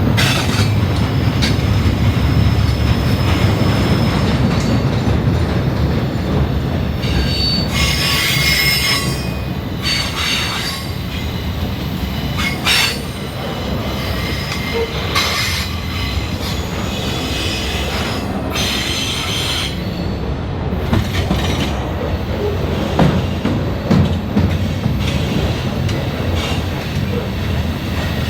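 Railroad cars rolling past with a steady low rumble of wheels on the rails, broken by several brief bursts of high-pitched wheel squeal, the longest about 8 seconds in and again about 18 seconds in.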